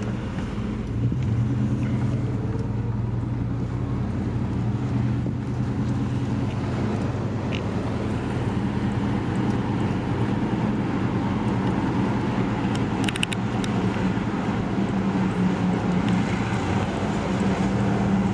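Car being driven at a steady pace, its engine hum and road noise running evenly, with a few brief clicks about 13 seconds in.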